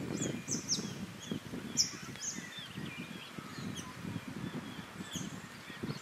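Small birds giving many short, high chirps and twitters, some overlapping, over a low rustling background.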